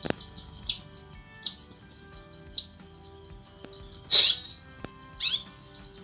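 Cucak kinoi songbird calling: a fast, even run of high chips, broken by louder sharp sweeping calls, the two loudest about four and five seconds in. The uploader gives it as a female's call to the male.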